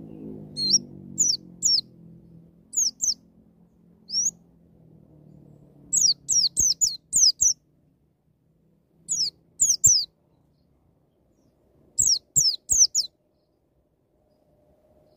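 White-eye (pleci) calling in quick, sharp chirps that slur downward, delivered in rapid clusters of two to six with short pauses between: the fast 'ngalas nembak' calling style.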